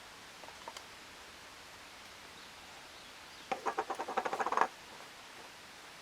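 A bird's quick chattering call, about a dozen short notes in just over a second, comes a little past the middle, over a faint steady hiss.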